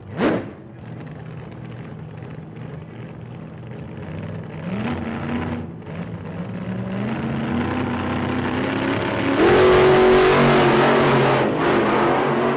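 Go-karts accelerating on a track, the motor pitch climbing in steps and the sound building louder, loudest a little before the end. A brief whoosh sweeps past right at the start.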